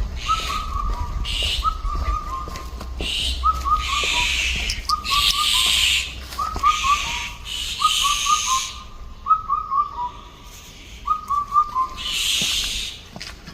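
Birds at dawn: one bird repeats a short phrase of quick, falling whistled notes about every one and a half seconds, with bursts of harsher, higher calls in between.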